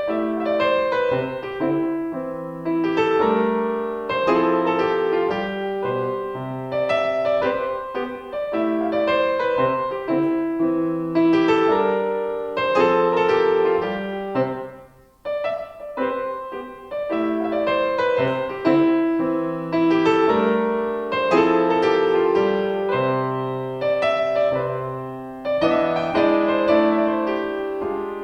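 Solo piano playing an unhurried melody over chords. The sound dies away briefly about halfway through, then the playing picks up again.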